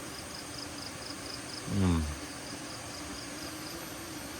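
High-pitched insect chirping in quick even pulses, about five a second, in two runs, over a steady background hiss. A short man's voice sound, falling in pitch, comes in about two seconds in.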